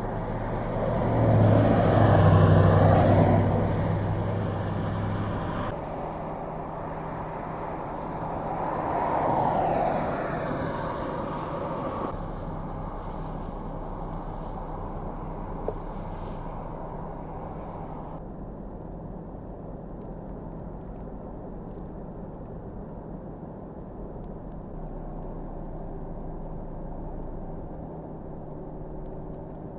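Vehicles passing on a snow-covered road: two swell up and fade away, the first near the start and the louder of the two, the second about ten seconds in. A steady low engine hum lies under the rest.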